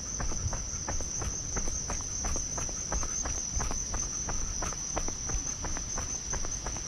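A steady high-pitched insect drone, like a chorus of crickets, with many irregular short clicks and rustles over a low rumble.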